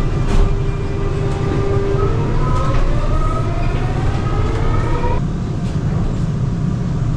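Seoul subway Line 4 train running, heard from inside the carriage: a steady low rumble with a rising electric motor whine as the train picks up speed, which cuts off abruptly about five seconds in.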